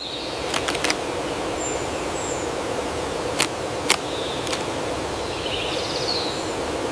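Steady outdoor forest ambience hiss with a few sharp taps: three in quick succession under a second in, then two more, single and half a second apart, around three and a half seconds in. Faint high bird chirps sound at a couple of points.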